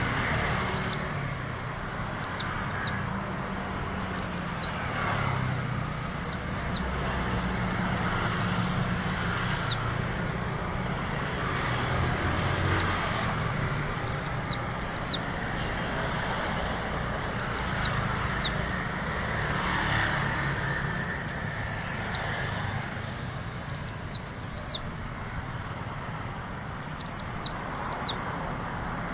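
White-eye (pleci) singing in the 'ngalas' style: short bursts of thin, high, quick twittering notes, repeated every second or two, over a steady low background rumble.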